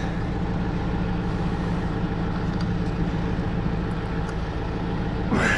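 An engine idling in the background: a steady, even low hum. A few faint clicks, and a short voice sound near the end.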